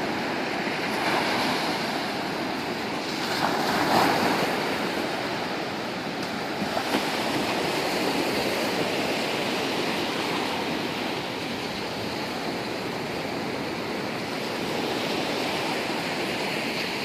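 Ocean surf breaking and washing up the shore in a steady rush, swelling as waves come in, loudest about four seconds in.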